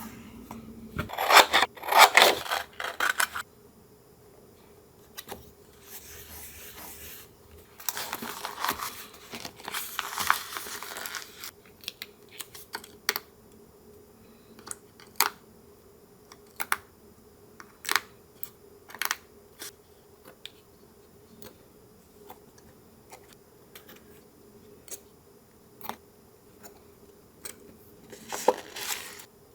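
Paper crafting sounds: paper rustling and being handled or torn in a few noisy stretches, with many short, sharp clicks and taps in between.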